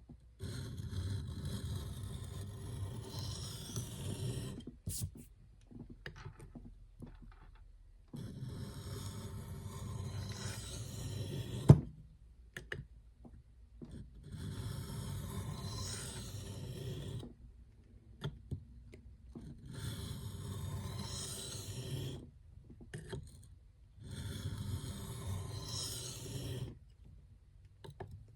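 A hard Nitro-V steel knife blade is stroked back and forth on a sharpening stone in five spells of a few seconds each, with short pauses between them. There is a sharp click about twelve seconds in.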